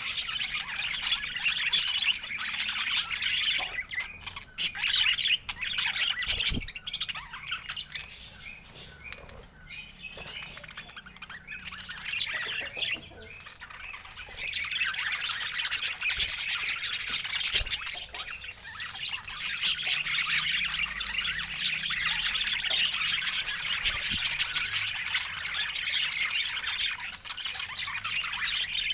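Budgerigars chattering and chirping, many short calls overlapping. The chatter thins out and goes quieter for several seconds about a third of the way in, then picks up again.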